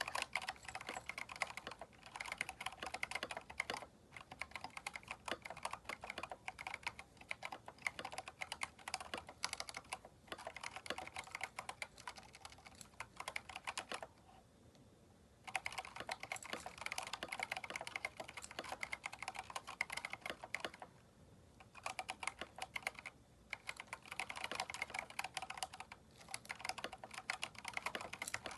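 Typing on a Keychron K4 mechanical keyboard fitted with aftermarket keycaps: fast runs of key clacks broken by short pauses, with a longer pause about fourteen seconds in.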